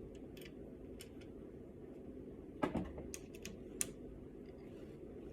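Scattered small clicks and taps of a hand tool on the plastic parts of a 3D printer's extruder fan assembly as its screws are taken out, a cluster of them a little over halfway through, over a low steady hum.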